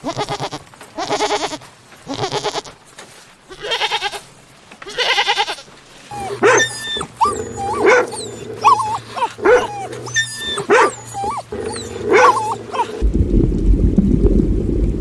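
Animal calls: four short rasping calls in the first five seconds, then a run of short, squealing cries that rise and fall in pitch over a steady hum, followed by a low rushing noise near the end.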